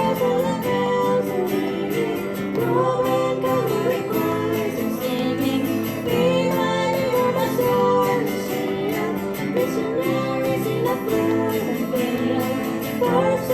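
Live band music: acoustic guitar and piano playing chords under sung vocals in a pop-rock song.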